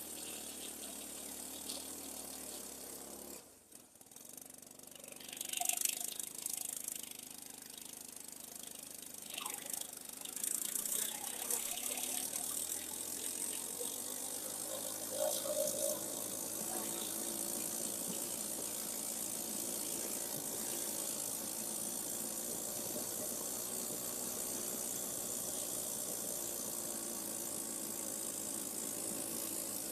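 Irbis Dingo T110 snowmobile's small single-cylinder four-stroke engine running under way. The sound drops away briefly about four seconds in, comes back unevenly, then settles into a steady run from about halfway through.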